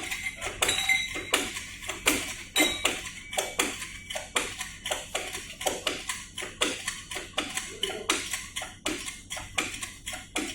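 Metal clicking and knocking at a steady pace of about three sharp strokes a second, each with a short metallic ring: metal tools or parts being worked during the engine handling.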